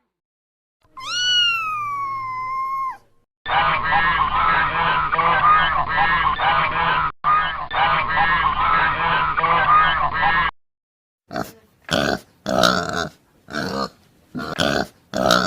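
Geese honking. First comes a single drawn-out call that falls in pitch and then holds. Then a whole flock honks together for about seven seconds, and near the end there is a string of about six separate honks.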